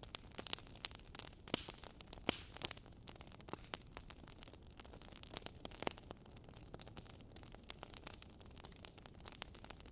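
Wood fire crackling in a fireplace: irregular sharp pops and snaps over a soft steady hiss of burning logs, with a flurry of snaps in the first few seconds.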